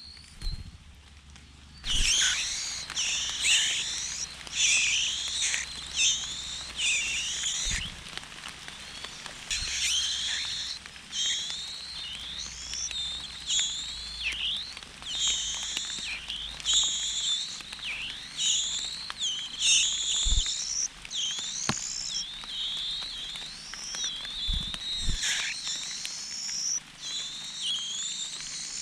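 High-pitched bird chirping, starting abruptly about two seconds in and going on as a rapid, continuous series of short downward-sweeping calls.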